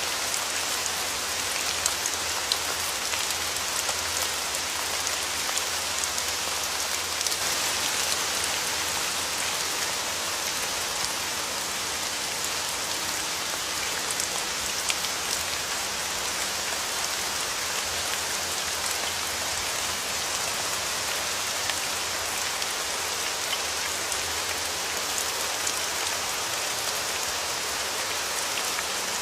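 Steady rain falling, with scattered sharper drop ticks standing out over the even hiss.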